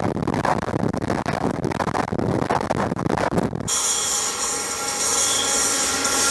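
Railway wheels rumbling and clacking over the rails as a train runs past at close range, then an abrupt cut about three and a half seconds in to a steady hiss with several high, steady ringing tones.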